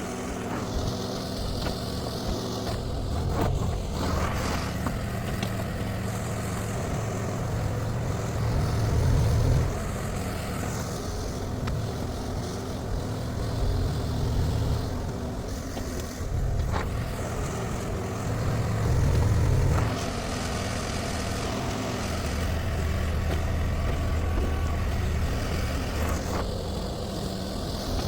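Shantui STE35SR mini excavator's diesel engine running steadily while working, swelling louder twice under hydraulic load, with a few knocks scattered through.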